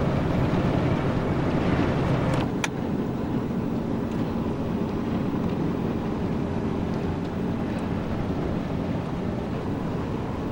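Steady road and engine noise of a car driving at highway speed, heard from inside the cabin, with a sharp click about two and a half seconds in, after which it runs a little quieter.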